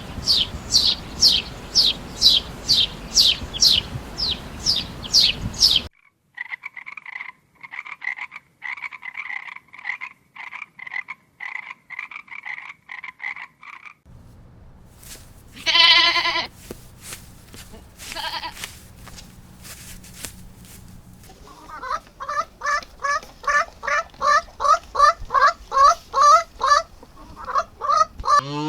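A string of animal calls in short separate clips. First a run of rapid falling chirps, then pulsed croaking about twice a second, then two loud wavering bleat-like calls. Near the end comes a fast series of rising calls.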